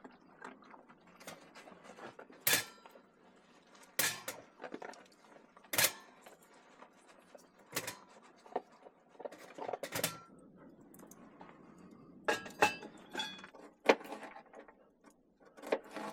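Metal clanks and knocks of a folding wood-burning camp stove and cast iron cookware being handled and set in place, with several close together about three-quarters of the way through.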